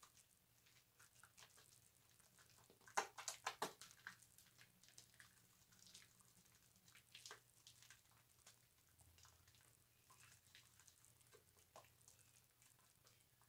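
Faint wet crackling and squishing of bar soap being lathered, with a cluster of louder squelches about three seconds in.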